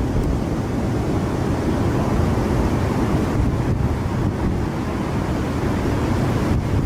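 Strong hurricane wind buffeting the microphone in a loud, steady low rumble, with surf from big waves under it.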